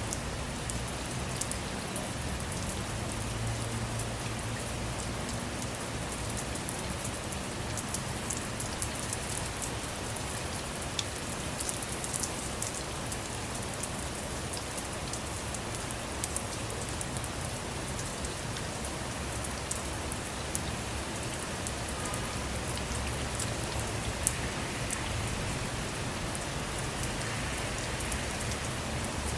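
Steady rain falling on a car, a constant patter with many sharp ticks of single drops over a low rumble.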